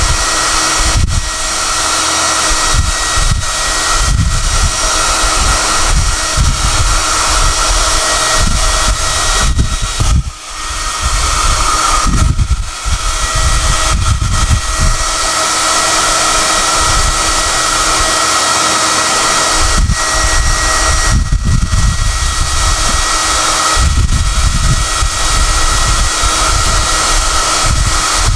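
SOUNATE high-airflow hair dryer running, a loud steady rush of air with a high whine, and uneven low rumbles of air as it is moved about. Its sound drops briefly a few times.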